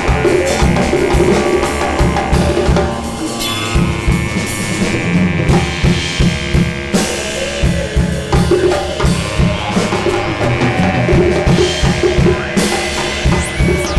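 Free-improvised music: a busy, irregular drum kit and hand percussion pattering and crashing under sustained ringing metal and drone-like tones, with no steady beat.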